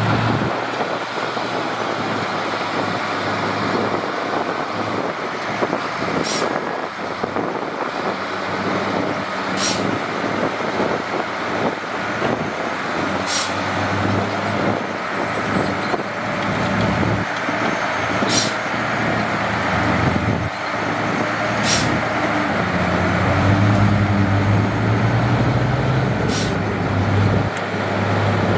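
Heavy diesel construction machinery running steadily, its low engine note growing louder about two-thirds of the way through. A few short sharp clanks sound several seconds apart.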